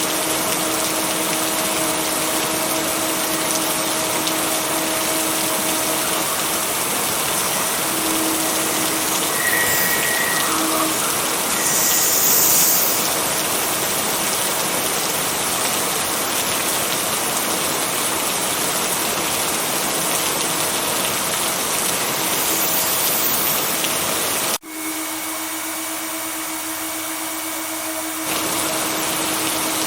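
Steady rain, an even hiss, with faint steady tones underneath from mixed-in binaural beats. About three-quarters of the way through it cuts abruptly to a thinner, quieter rain for a few seconds, then returns to full.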